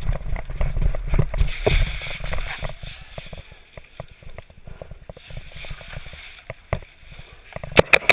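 Irregular clicks and knocks over a low rumble for the first couple of seconds, then a quick string of sharp cracks near the end, typical of a paintball marker firing.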